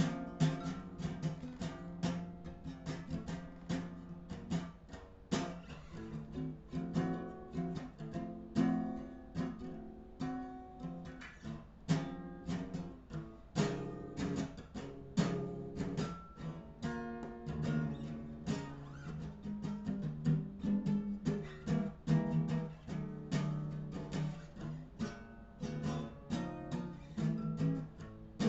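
Instrumental song passage led by a guitar playing quick plucked notes over a steady lower part, with no singing.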